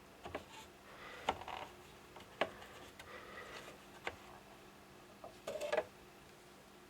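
Faint handling noise from the parts of a Honeywell HWM-910 warm mist humidifier: a few separate clicks and knocks with brief scraping between them, the last a short clatter near the end.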